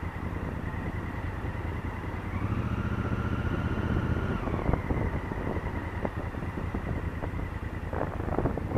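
Honda Africa Twin CRF1000L's parallel-twin engine running under way. Its note rises about two seconds in, holds for two seconds, then drops back to a steady pace. Wind noise starts to build near the end.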